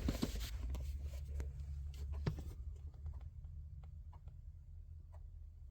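Quiet room tone: a steady low hum with faint, scattered light clicks, more of them in the first couple of seconds.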